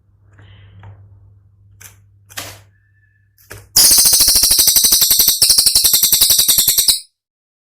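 Cililin songbird giving a loud, very rapid, high-pitched rattling trill, the sharp 'tembakan' burst, from about halfway through for some three seconds, cutting off abruptly. Before it there is only a faint low hum and a few soft clicks.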